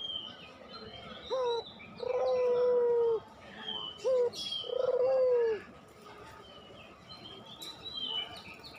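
Puter pelung, the long-voiced Barbary dove, cooing twice: each coo is a short upward note followed by a long held note. Small birds chirp high in the background.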